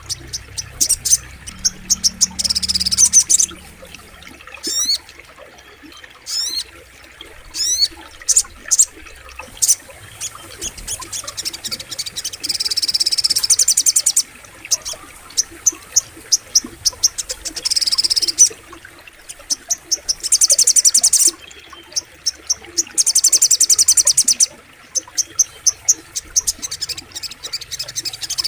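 Sogok ontong bird song used as a training (masteran) recording: very high-pitched rapid trills and buzzy chattering phrases of a second or two each, repeated with short pauses, with a few quick falling whistles early on.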